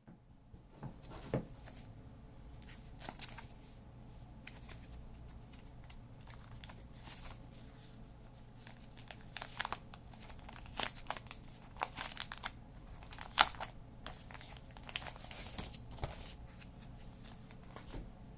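E-reader packaging being handled and opened: crinkling and tearing of wrapping, with scattered clicks and taps and one sharp click a little past the middle.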